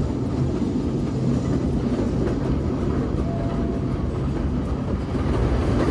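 Kurobe Gorge Railway narrow-gauge train running on its track: a steady rumble and rattle of wheels and running gear, with a brief faint whine a little past three seconds in.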